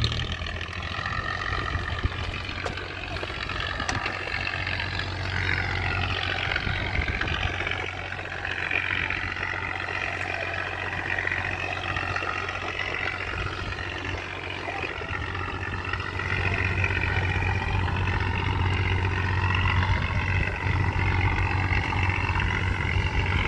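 Boat engine running with a steady low drone, a little louder from about two-thirds of the way through.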